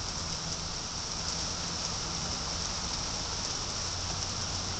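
Steady rain falling and pattering on surfaces, an even hiss during a thunderstorm.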